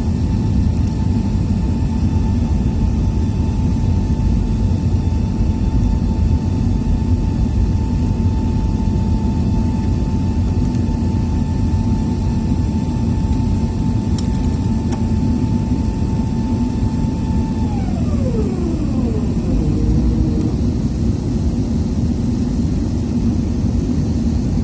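Jet airliner climbing after takeoff: a steady low roar of engines and airflow, with a thin whine that holds one pitch, then falls away and fades about three-quarters of the way through.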